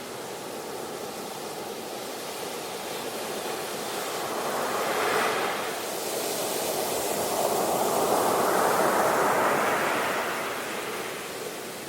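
Sea waves washing onto the shore in a steady hiss of surf. One wave swells briefly about five seconds in, and a longer one builds and breaks from about seven to ten seconds before receding.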